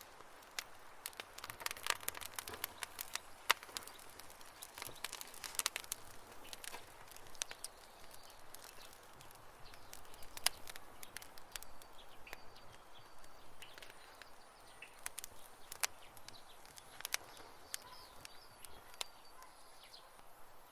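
Campfire wood crackling, with sharp snaps and pops over a soft hiss. The pops come thick and fast for the first several seconds, then thin out to scattered snaps, and a few faint high chirps sound in the later part.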